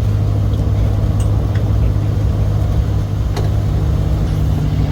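Steady engine and road drone heard from inside a moving car, a low even hum with faint tyre hiss.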